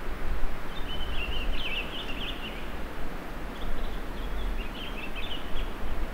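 A small songbird twittering in two short bouts of quick high chirps, over a steady outdoor hiss with a low rumble on the microphone.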